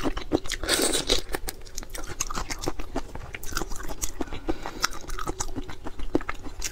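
Close-miked chewing of a sweet-and-spicy shrimp in chili oil: a burst of crunchy, crackling bites in the first second or so, then steady moist chewing with small clicks.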